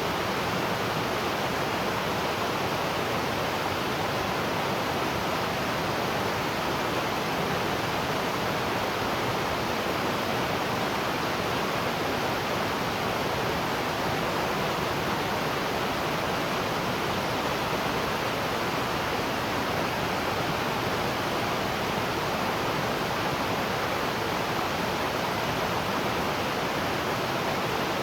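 Waterfall: water pouring and splashing in a steady, even rush without a break.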